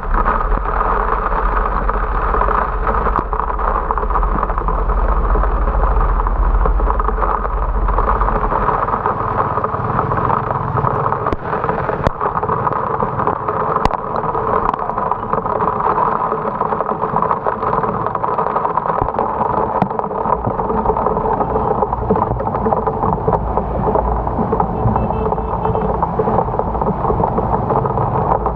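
Steady rush of heavy rain and road noise from a moving motorcycle, with low wind rumble on the microphone that eases about eight seconds in. A few sharp ticks stand out, near the middle.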